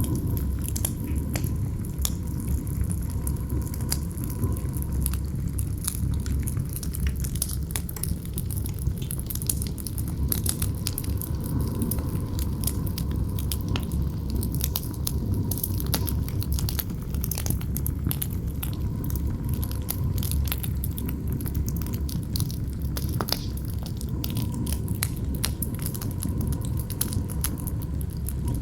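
Campfire crackling with frequent sharp snaps and pops over a steady low rumble of wind.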